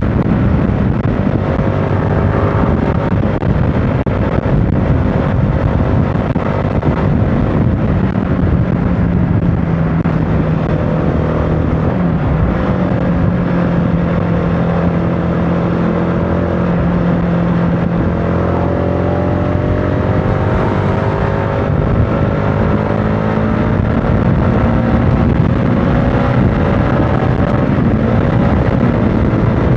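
CFMOTO motorcycle engine running while riding, its pitch slowly rising and falling with the throttle, over steady wind and road noise.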